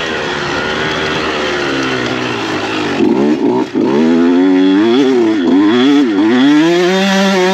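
Dirt bike engine revving as it rides, its pitch rising and falling over and over; it gets louder about three seconds in.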